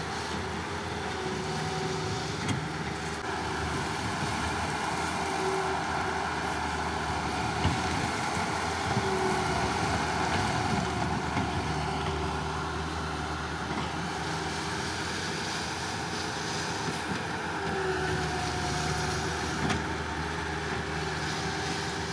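Mini skid steer's engine running steadily while it spreads crush-and-run gravel over the driveway, with a few short knocks along the way.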